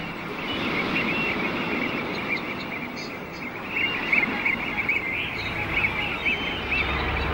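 Birds chirping in quick, busy twitters over a steady rushing wash of noise.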